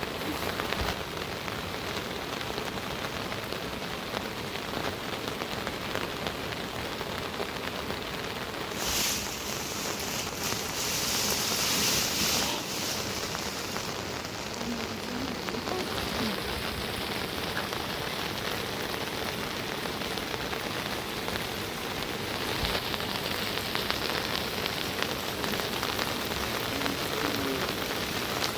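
Steady rain falling, an even hiss, growing louder and brighter for a few seconds about ten seconds in.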